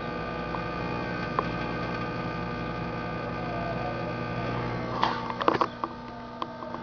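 Microwave oven running with a steady electrical hum from its high-voltage transformer and magnetron while arcing inside as it burns itself out. A few sharp snaps come about five seconds in.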